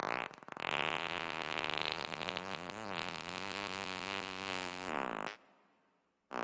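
Nissan 370Z's V6 running through a straight-piped single-exit exhaust with no muffler or catalytic converters, a steady exhaust note whose pitch drifts up and down slightly. It breaks off abruptly about five seconds in and comes back about a second later.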